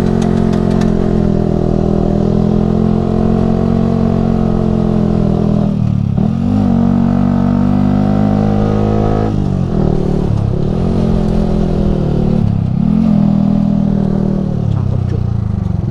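Yamaha R15 v3's single-cylinder 155 cc engine running through a Ronin Musashi aftermarket exhaust while riding. The engine note holds steady, then drops and picks up again about six seconds in and several more times in the latter half, as the throttle is eased and reopened or gears are changed.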